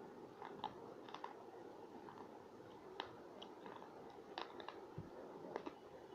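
Scattered small clicks and crunches, a few each second, irregularly spaced, over faint background hiss.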